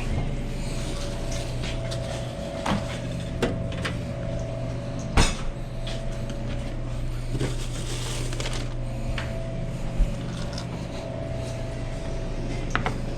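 Kitchen work on a restaurant cooking line: a few scattered clunks and knocks of pans, containers or cabinet doors, the loudest about five seconds in, over a steady hum of kitchen equipment.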